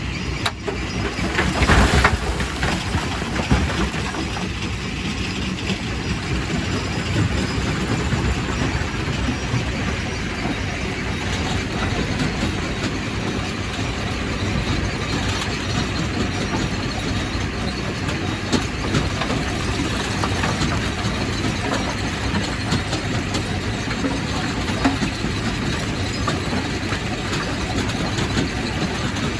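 Quarry primary rock crusher running, breaking stone with a steady grinding din and irregular knocks and clatter. There is a loud crash about two seconds in.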